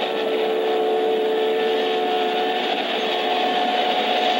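Diesel locomotives of a freight train passing close by: a steady, loud engine and rail noise that sounds thin, with no deep bass, and two steady tones held over it, one fading about halfway through and the other carrying on.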